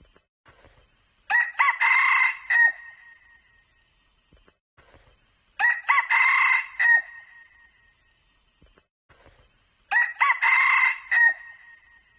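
Red junglefowl crowing: three crows of about a second and a half each, evenly spaced about four seconds apart, with near silence between them. The crows are alike in shape, like a repeated recording.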